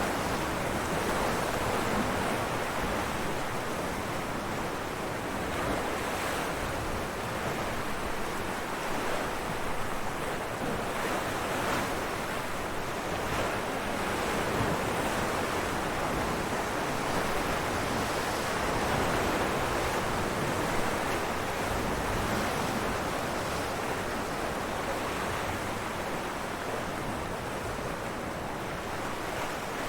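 Ocean waves breaking on rocks: a continuous rushing wash of surf that swells and eases gently, with no single crash standing out.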